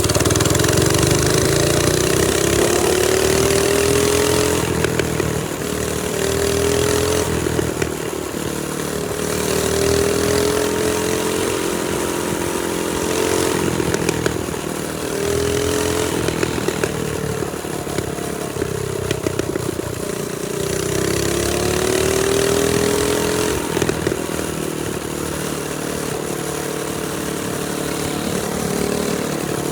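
Trailmaster Storm 200 minibike's small single-cylinder four-stroke engine running under way, its pitch rising and falling again and again as the throttle is opened and eased off.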